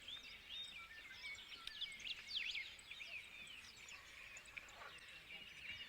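Faint natural ambience of many small birds chirping: short, overlapping high calls and quick up-and-down whistles, with no single call standing out.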